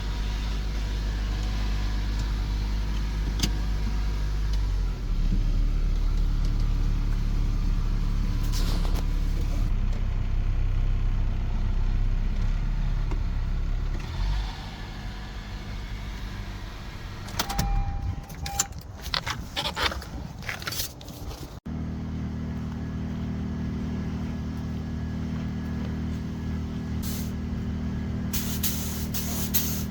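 A 2016 Honda Accord's engine idling steadily through the first half, fading about halfway. A few clicks and knocks follow, then a sudden cut to a different steady machine hum.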